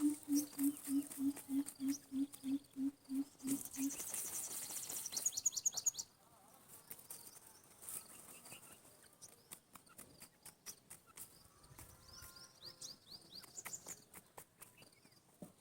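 Bird calls: a run of evenly spaced low hoots, about three a second, for the first four seconds, then quick high chirps. It goes quieter, with scattered clicks and another short run of high chirps near the end.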